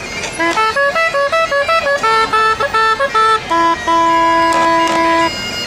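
A melody of short, separate pitched notes played quickly, ending on one long held note.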